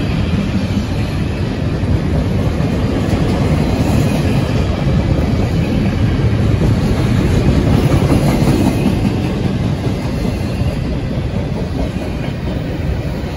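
Double-stack intermodal freight train rolling past, a steady running noise of its well cars' wheels on the rails, a little louder about eight seconds in.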